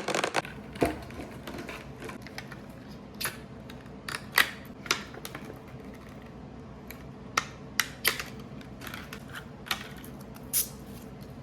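A store-bought cake's container being opened and handled: scattered, irregular sharp clicks and snaps, a dozen or so spread over several seconds.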